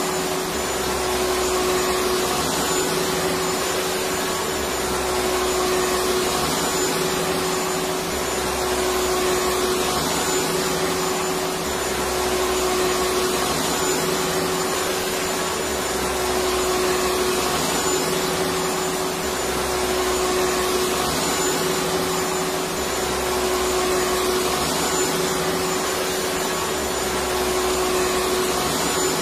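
Electric vacuum cleaner running steadily: an even rushing noise with a constant hum-like tone through it, no change in speed.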